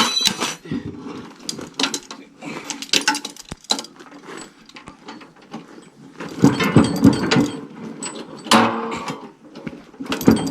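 Irregular metallic clicks and knocks of mower parts being handled and shifted, with a denser, louder clatter about six seconds in and a sharp knock about two seconds later.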